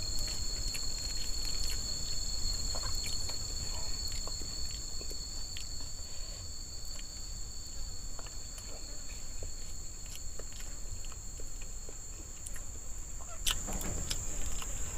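Forest insects making a steady high-pitched drone, in two constant tones; the lower tone fades out near the end. Scattered soft clicks and small handling sounds of someone eating can be heard under it.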